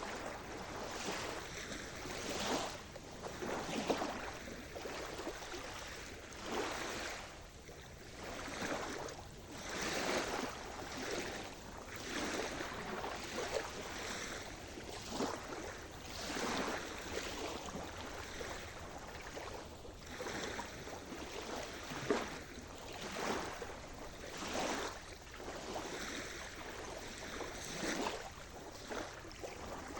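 Sea surf: small waves breaking and washing on the shore, a fresh swell of noise every second or two.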